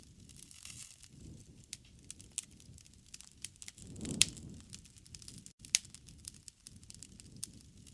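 Wood fire crackling, with irregular sharp pops over a low rumble of flames; the loudest pop comes about four seconds in.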